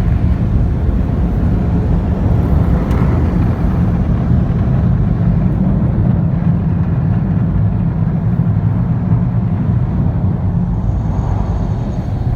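PDQ Max car wash air dryers blowing down onto a car from the top: a loud, steady rush of air.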